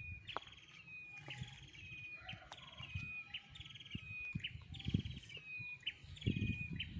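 A bird singing the same short phrase over and over, about once a second: a quick buzzy trill followed by a clear, steady whistle. Low, uneven rumbles and a few faint clicks run underneath.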